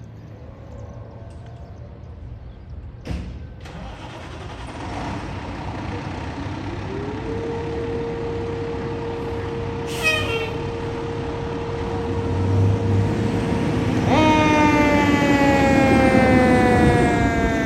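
Fire department ladder truck responding, its engine growing louder as it approaches, with a short hiss about three seconds in. A siren tone rises and holds steady, and a brief horn blast sounds about ten seconds in. Near the end a loud electronic siren wail starts, slowly falling in pitch.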